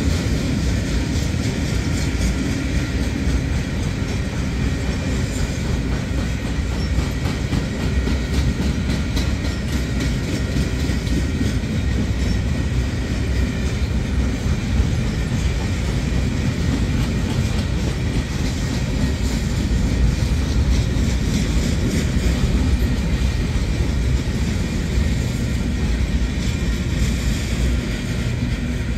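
Loaded freight-train flatcars rolling past on the rails: a steady, heavy rumble with the wheels clattering along the track.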